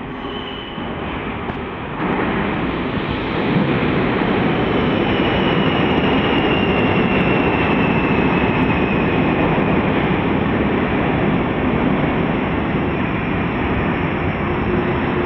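'Neva' train running, a loud steady rumble of wheels and running gear that builds up and jumps louder about two seconds in, with a thin whine slowly falling in pitch across the middle.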